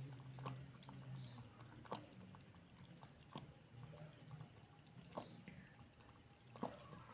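A cat feeding, faint: small wet clicks and smacks, about five of them spaced a second and a half or so apart.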